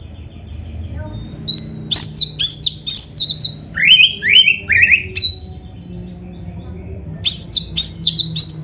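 An Oriental magpie-robin (kacer) singing loud, rapid phrases of sharp whistled notes, each quickly bent in pitch. A run of three lower up-slurred notes comes about four seconds in, and another quick burst of high notes comes near the end after a short pause.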